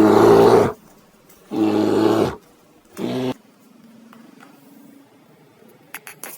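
A big cat roaring: three low roars in a row, each shorter than the one before, then quiet apart from a few faint clicks near the end.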